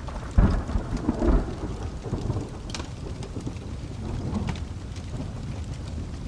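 A thunderclap breaks out about half a second in and rolls on in a deep rumble with a second peak, fading after a couple of seconds, over steady rain. Sharp crackles from a wood fire pop now and then.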